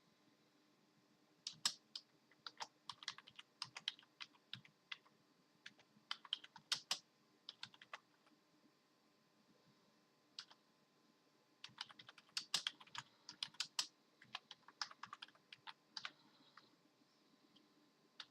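Computer keyboard keys clattering in irregular flurries of presses with pauses between them: random, non-rhythmic typing, as a dog hitting the keys would make.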